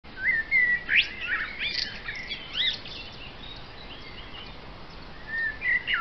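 Songbirds chirping and whistling: several short notes rising and falling in pitch, busiest in the first three seconds, with a few more calls near the end.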